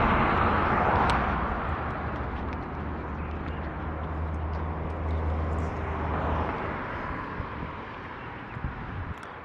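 Outdoor traffic noise, with a vehicle's low engine rumble that fades away after about six and a half seconds.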